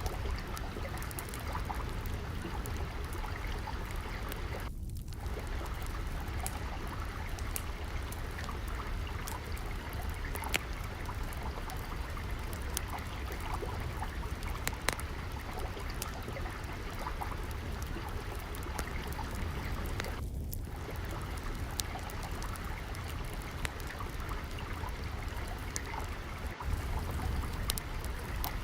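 Steady flowing water with irregular sharp pops and crackles of a wood fire over it, and a low rumble underneath.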